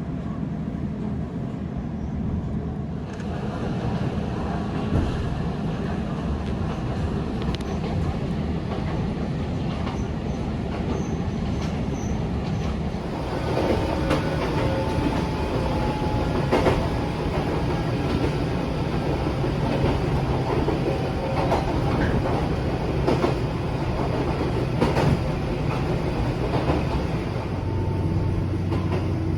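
Toyama Chiho Railway electric train running on the line, heard from inside the car: a steady rumble of wheels on rail. About halfway through it grows louder, with repeated clicks of wheels over rail joints and a faint thin wheel squeal.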